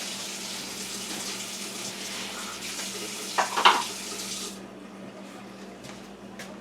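Water running steadily, like a tap or water poured into a pot, with a short clink of metal or glass about three and a half seconds in. The running water cuts off suddenly about four and a half seconds in.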